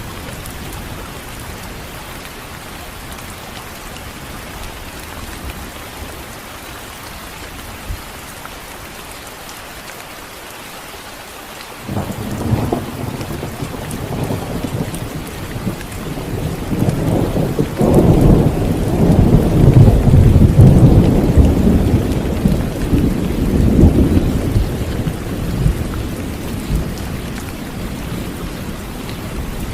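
Steady rain falling, with a roll of thunder that breaks in suddenly about twelve seconds in, swells to its loudest past the middle and rumbles away toward the end.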